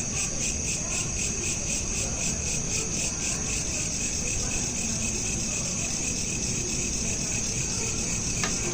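Crickets chirping in a steady, fast-pulsing high trill, with a brief click near the end.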